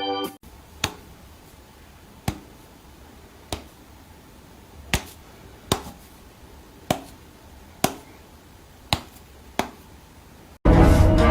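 About nine sharp single clicks or taps at uneven intervals over a quiet background; loud music cuts in abruptly near the end.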